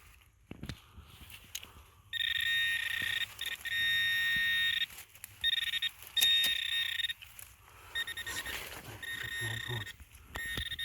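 Metal detector tone sounding over a buried target: a steady high electronic tone that switches on and off in several stretches of about half a second to two and a half seconds, with scraping and rustling from digging in between.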